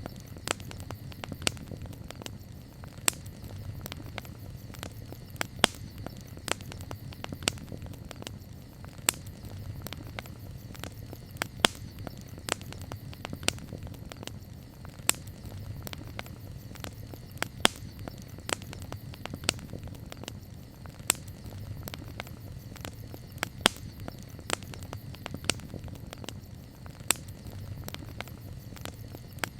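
Campfire burning with a steady low rumble and frequent sharp crackles and pops of wood, a few each second, some much louder than others.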